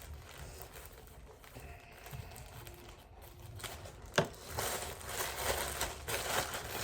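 A sharp click about four seconds in, then crinkling and rustling of plastic wrapping being handled.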